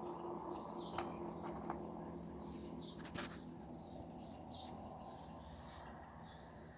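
Birds chirping faintly over a steady low hum, with a few sharp clicks in the first half.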